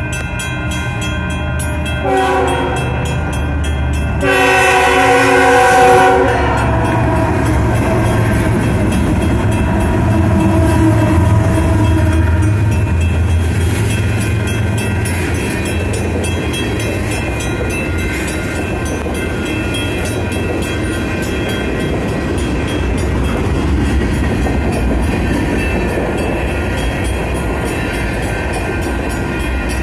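BNSF freight train locomotive sounding two horn blasts, the second longer, then the train rumbling through the crossing with wheels clacking on the rails. Railroad crossing bells ring steadily throughout.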